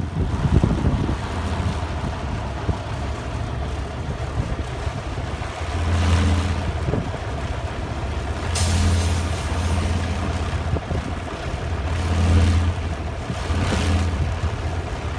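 Small wind generator spinning at high speed in strong wind, its blades giving a steady low drone like a propeller airplane overhead, swelling several times with the gusts.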